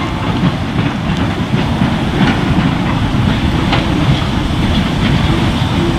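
Goods train of short-wheelbase freight wagons and a brake van rolling slowly away, wheels clicking over rail joints over a steady low rumble.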